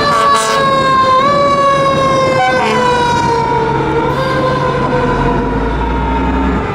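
Fire engine siren on a 1995 KME pumper, its pitch falling slowly with brief upward steps about a second in and near four seconds. A deep truck engine rumble joins near the end.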